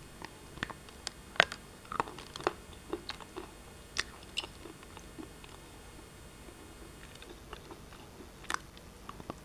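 Black shale pieces being bitten and chewed: sharp, irregular crunches, thick in the first half, a lull of about two seconds, then a couple more crunches near the end.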